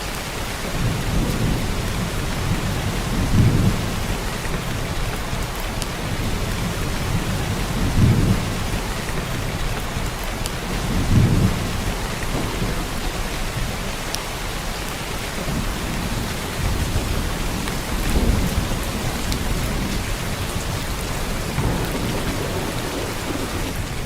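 Heavy downpour of rain, a steady dense hiss, with low rumbles swelling up and fading several times.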